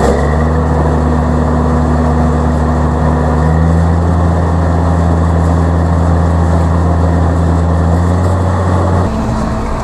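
Tractor engine running steadily with a deep, even hum, the pitch stepping up slightly a few seconds in and dropping back near the end.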